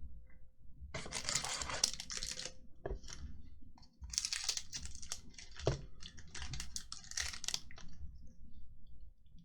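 Foil Magic: The Gathering booster pack wrapper being torn open and crinkled by hand, in several rustling bursts.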